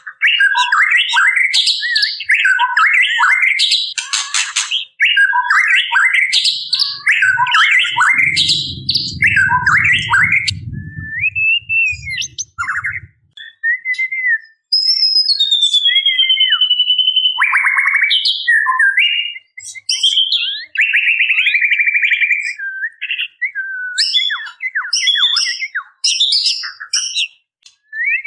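White-rumped shama (murai batu) calling, presented as a female calling for a male: rapid chattering notes and short whistles, then a long falling whistle midway and a buzzy rattling call (the 'ketrekan') a few seconds later. A low rumbling noise sits under the calls for several seconds about a third of the way in.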